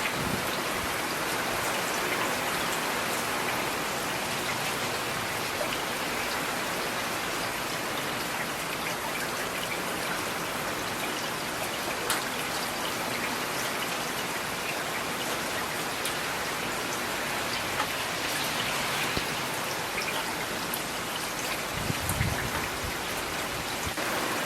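Steady rain falling, with single drops tapping sharply now and then and a brief low rumble near the end.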